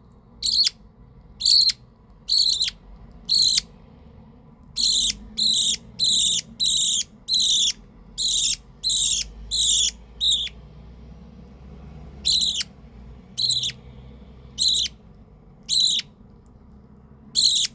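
Hand-reared budgerigar chick giving short, rasping begging calls while being hand fed, about twenty calls in runs of up to two a second, with a longer pause near the middle.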